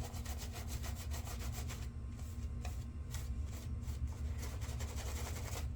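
Shaving brush scrubbing menthol glycerin soap lather onto the face: a soft, scratchy rubbing of bristles in quick, even strokes.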